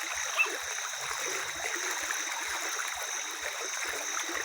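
Water flowing in a stream, a steady rushing sound, with a small click about half a second in.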